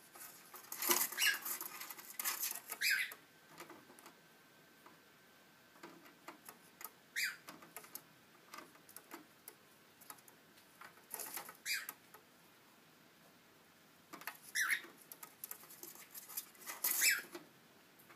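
A cockatiel scrabbling about on a plastic printer, with scattered scratches and taps and short squeaky chirps every few seconds.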